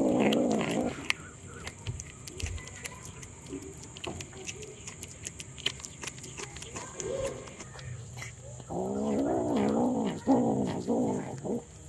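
A cat meowing in long, drawn-out, wavering calls. One ends about a second in and another runs for about three seconds near the end, with a brief call and faint clicks in between.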